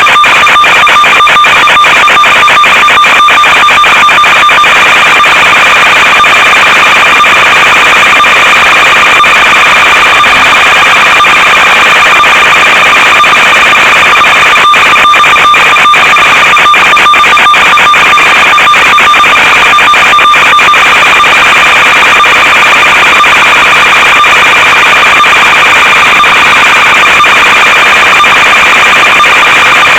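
Loud, unchanging electronic buzz with a steady pitched tone over hiss and many brief crackling dropouts: the noisy audio channel of an analog FPV video link.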